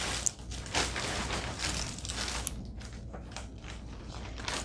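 Plastic packaging crinkling and rustling as it is handled, with a few light clicks, louder in the first couple of seconds.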